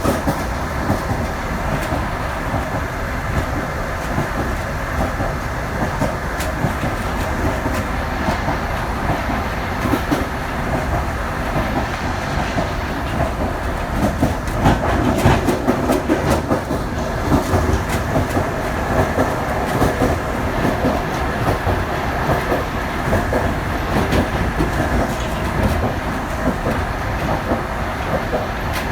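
Passenger train running on the track: a steady rumble with irregular clicks and clatter of the wheels over rail joints.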